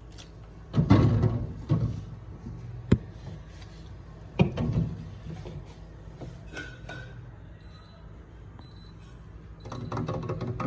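Several knocks and clunks of drinks and a fridge door being handled while a fridge is restocked, the loudest about a second in. A few short high beeps follow, and music starts near the end.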